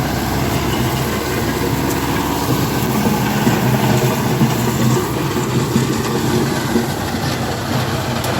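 Kubota MU5501 tractor's four-cylinder diesel engine running steadily under load, driving a Kubota KRMU 181D rotary tiller that chops standing cotton plants.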